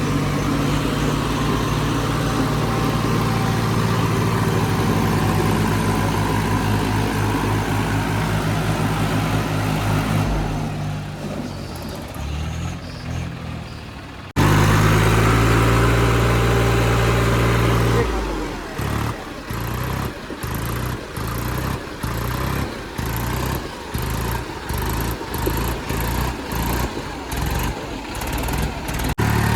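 Tractor diesel engines running hard under load. The sound is steady at first, then fades. After a sudden cut it comes back louder, and a few seconds later it settles into a rapid, even pulsing.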